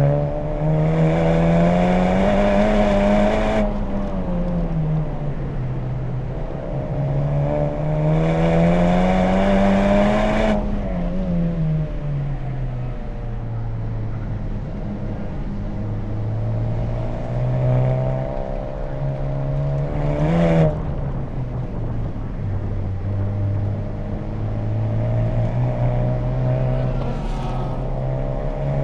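2020 Honda Civic Type R's turbocharged four-cylinder engine through an HKS Legamax Premium exhaust, driven hard on track. Twice the revs climb under full throttle and then cut off sharply, followed by a lower, steadier stretch with a short rev blip about two-thirds of the way through.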